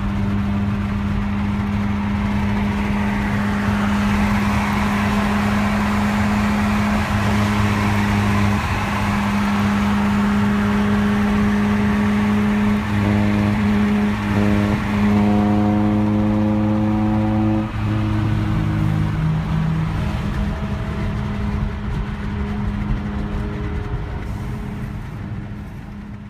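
Honda K24 inline-four engine in a Civic EP3, heard from inside the cabin, running at a steady pitch at highway speed with a constant drone over road and wind noise. The sound fades out near the end.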